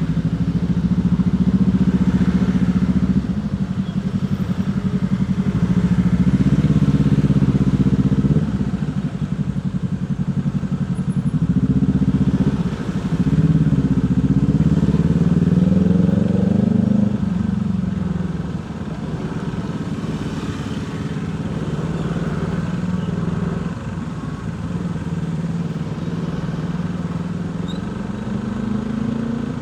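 Motorcycle engine running, its pitch rising and falling as it speeds up and eases off several times, then settling to a lower, steadier note about two-thirds of the way through.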